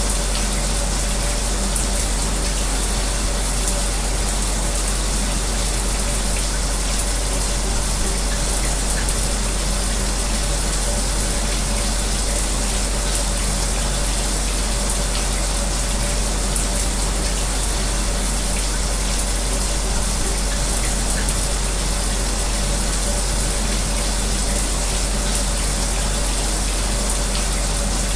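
A shower running with a steady spray of water, mixed with the steady hum of an electric fan, unchanging throughout.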